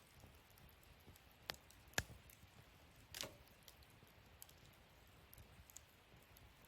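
Wood fire in a fire stand crackling quietly with faint ticks, broken by three sharp pops, the loudest about two seconds in and the last a short crackle.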